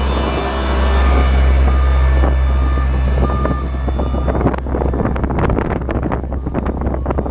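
Heavy truck engine running low and steady while its reversing alarm beeps three times, about once a second, in the first half. From a little past the middle, rapid irregular crackling and clicking takes over.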